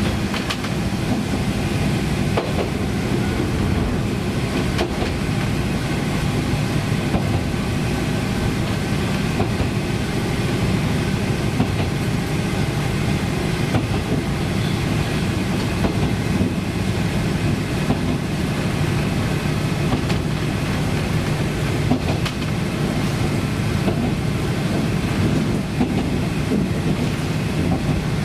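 Diesel railcar running along the line, heard from on board: a steady engine drone with the hum of the wheels on the rails and a few faint clicks at rail joints.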